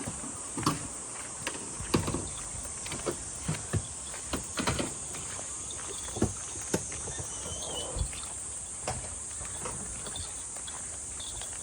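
Insects singing steadily in a high, even drone, over a low rush of water, with irregular sharp clicks and knocks scattered throughout.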